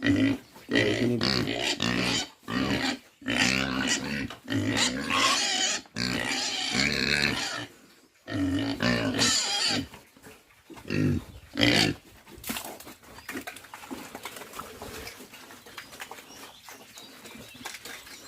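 Pigs squealing in repeated loud bursts at feeding time, growing quieter after about twelve seconds.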